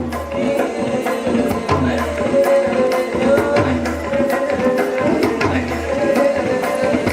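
Live music: a drum rhythm of sharp strokes and deep bass strokes under a wavering melody.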